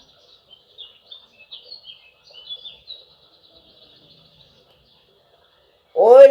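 Small birds chirping and twittering faintly in quick runs of high notes, fading out after about three seconds. Near the end a voice comes in loudly, chanting a Quran recitation.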